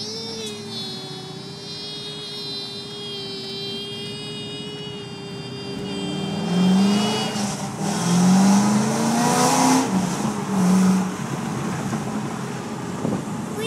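2004 Corvette Z06's V8 heard from inside the cabin, accelerating hard: the engine note climbs in several rising sweeps, loudest in the middle, after a first half in which a steady high-pitched whine runs over a lower engine sound.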